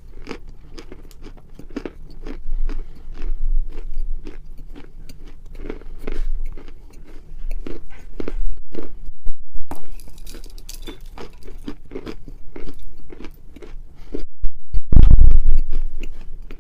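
Close-miked crunching of dry edible clay being bitten and chewed, many crisp brittle cracks in irregular clusters. A loud low thump near the end.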